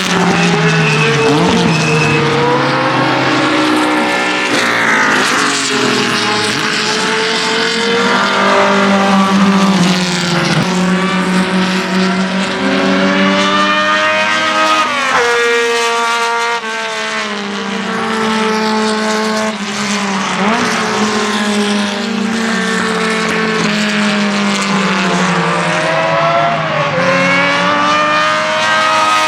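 Ferrari 1512's 1.5-litre Tipo 207 flat-12 racing engine at full speed, climbing high in pitch through each gear and dropping back sharply at the shifts, over and over. At times other historic racing cars' engines overlap with it.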